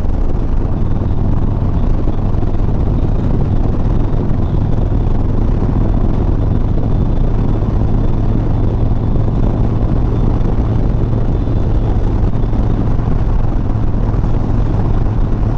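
Harley-Davidson Softail Sport Glide's V-twin engine running steadily while riding, under a heavy, even rush of wind noise. The sound stays the same level throughout, with no change in engine pitch.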